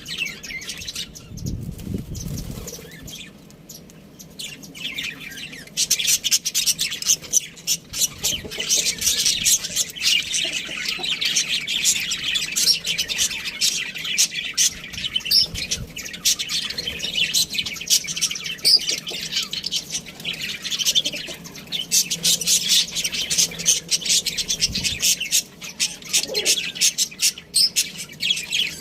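Budgies (budgerigars) chirping and chattering: sparse chirps at first, then a dense, continuous twittering from about six seconds in. There is a low thump about two seconds in.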